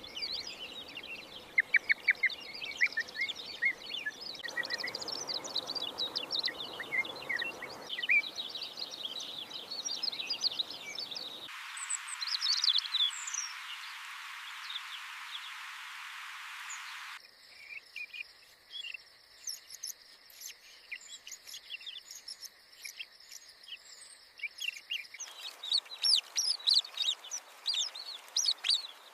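Birds chirping and calling in many short, high notes, across several recordings cut together; the background noise changes abruptly every few seconds.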